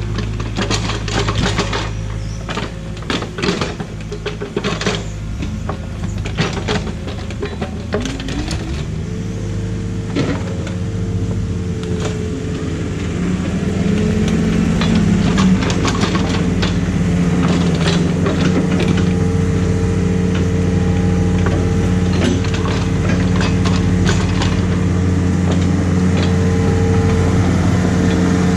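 Excavator's diesel engine running under hydraulic load while its bucket scrapes and knocks through creek rocks. The clanks of rock on steel are thickest in the first several seconds; about eight seconds in, the engine rises in pitch and then runs steadily and louder.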